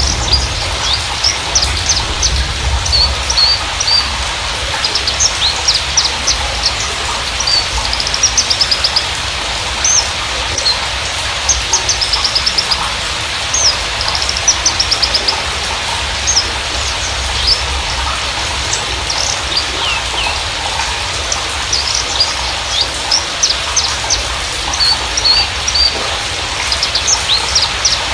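Horsfield's bushlark (branjangan, Mirafra javanica parva) singing a fast, varied song of high chirps, trills and short slurred notes in phrase after phrase, over a steady background hiss.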